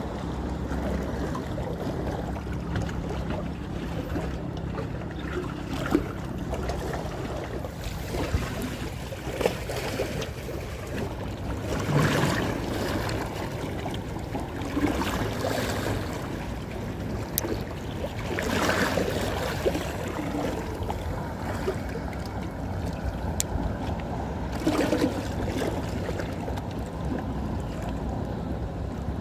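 Sea water sloshing and lapping, with a steady low hum underneath. Louder washes of water come about twelve, nineteen and twenty-five seconds in.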